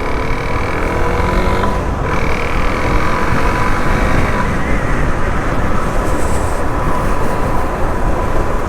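Suzuki DR-Z400SM supermoto's single-cylinder four-stroke engine running steadily under way, mixed with heavy wind rush over the microphone.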